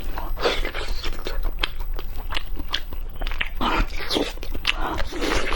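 A person eating close to the microphone, biting and chewing with a string of irregular wet mouth clicks and short crunchy bursts.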